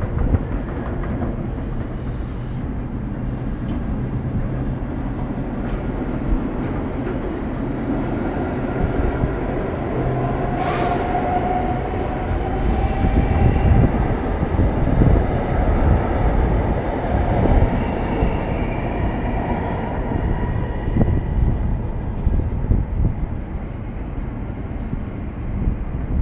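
Freight train of empty double-deck car-carrier wagons rolling past at close range: a steady rumble of wheels on rail with irregular clacks over the joints. There is a brief sharp noise about eleven seconds in and faint ringing tones through the middle stretch.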